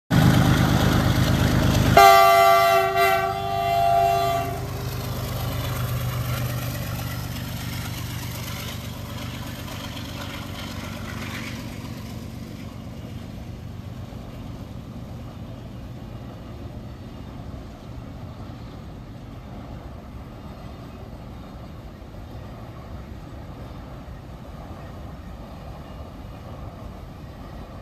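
A train passing with a loud rumble, its horn sounding for about two and a half seconds starting a couple of seconds in; the rumble then slowly fades away.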